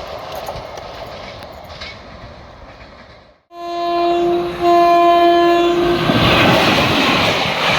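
Indian express train locomotive horn sounding in two blasts, a short one and then a longer one, followed by the loud rush of the train passing at high speed. Before that, a fading train rumble cuts off abruptly.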